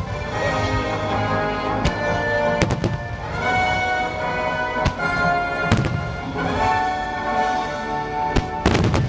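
Aerial fireworks shells bursting with several sharp, echoing bangs, a quick cluster of them near the end, over music with long held notes.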